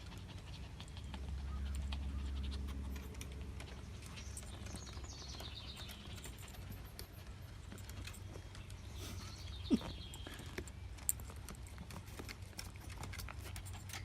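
Faint high-pitched animal chirps in two short runs, over a steady low hum, with a couple of sharp clicks.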